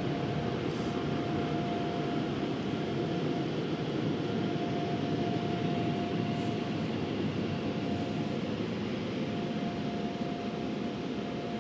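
Automatic car wash dryer blowers, heard from inside the car, blowing a steady rush of air over the car with a faint steady whine.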